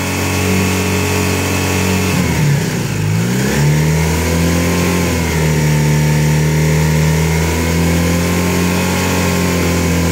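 Honda CB250N Superdream's 250 cc parallel-twin engine held at high revs, around 5,500 rpm, where the ignition reaches full advance. The revs dip for about a second just after two seconds in, then pick back up and hold steady.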